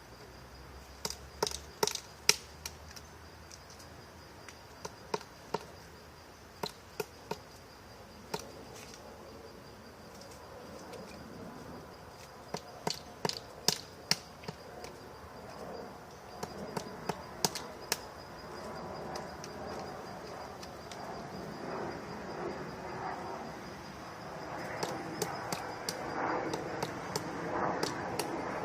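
A woodpecker pecking at wood: irregular sharp taps, singly and in short clusters of two or three, with pauses of a second or more between them. A steady, high insect trill runs underneath.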